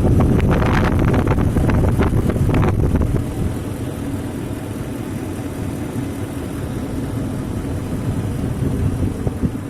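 BMW M62B35TU 3.5-litre V8 idling warm at operating temperature, running evenly after a VANOS rebuild. Irregular crackling over the first three seconds, then a steadier, slightly quieter idle.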